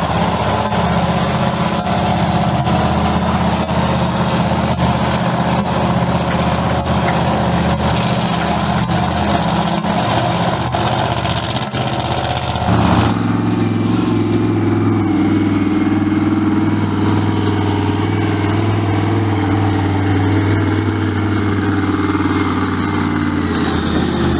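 Vehicle engines idling steadily, the engine note changing about thirteen seconds in as a different engine becomes the loudest.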